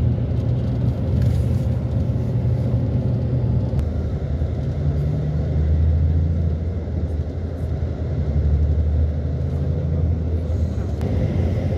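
A steady low rumble, like a motor vehicle's engine running, which shifts in pitch about four seconds in.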